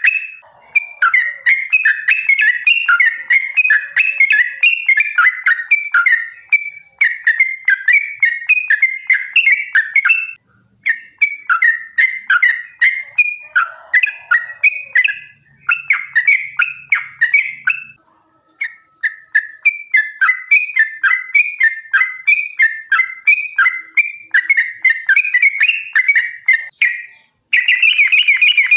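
Yellow-vented bulbul (trucukan) singing long, rapid phrases of quick bubbling chattering notes, broken by short pauses, the long 'ropel' song bird keepers use as a lure to set caged trucukan singing.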